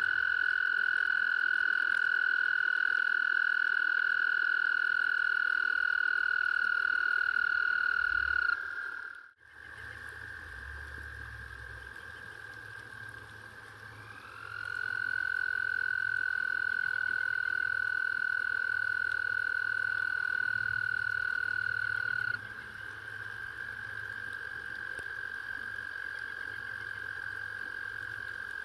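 Frogs calling in long, steady, high-pitched trills. A close trill rises at its start and holds for about eight seconds before stopping abruptly. A second close trill starts about fourteen seconds in and stops about eight seconds later, while a fainter trill keeps going underneath.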